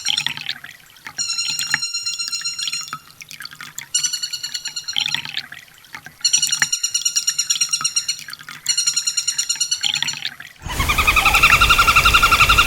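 Sunbird song: fast, high, trilled phrases about one to two seconds long, repeated with short pauses. About ten and a half seconds in, a louder, hissy recording cuts in with a lower, steady trill.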